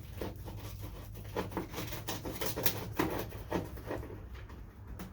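Irregular light clicks and scrapes of hand-tool work on the steel headlight fittings of a classic Mini, a few a second, over a steady low hum.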